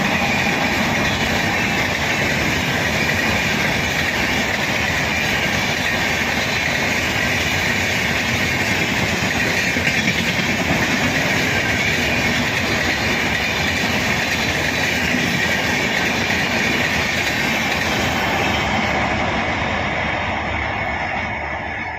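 Indian Railways train crossing a river bridge: a steady, loud rumble and clatter of wheels on the rails. It fades in the last few seconds.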